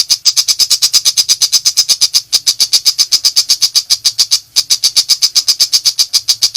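Shrike (pentet macan) giving its rapid, harsh rattling 'nembak' call, a dense run of strident notes at about nine a second, broken twice by brief pauses.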